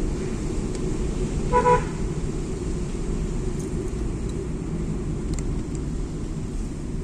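Steady low rumble of a vehicle travelling on a road, with one short horn toot about one and a half seconds in.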